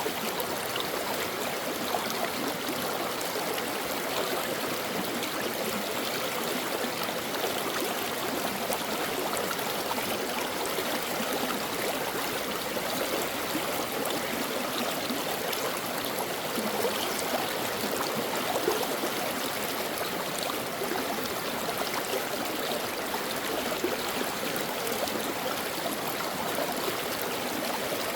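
A shallow stream flowing steadily over rocks, a constant rushing and babbling with small splashes.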